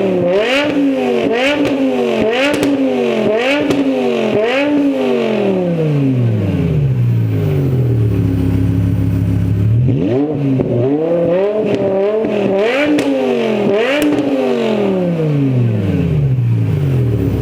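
BMW S85 V10 engine with the muffler removed, blipped in quick repeated revs about twice a second, then dropping back to a steady idle; a second run of rapid revs comes about halfway through before it settles to idle again.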